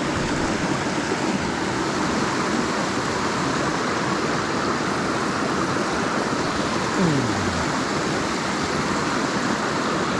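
Steady rushing water of a mountain stream running over rocks and small falls. A brief falling tone sounds once about seven seconds in.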